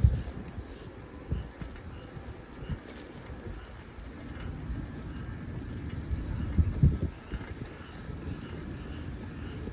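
Wind buffeting the microphone while cycling: a gusty low rumble with bumps, strongest right at the start and again around two-thirds of the way through. A thin, steady high-pitched buzz runs under it throughout.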